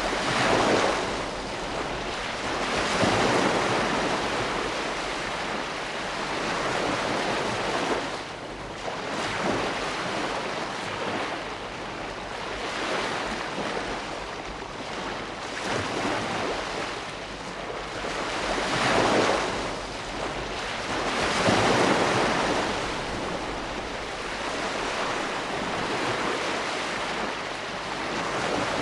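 Ocean waves breaking and washing in, a steady surf hiss that swells with each wave every few seconds.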